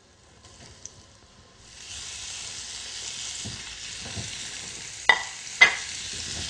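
Flour-coated lamb meatballs sizzling in hot vegetable oil in a sauté pan. The sizzle starts about two seconds in as they hit the oil and then runs steadily, with two sharp clicks near the end.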